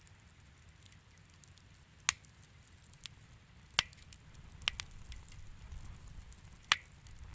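Wood fire in a fireplace crackling, a soft low rumble under scattered small ticks, with four sharp, louder pops spread through it.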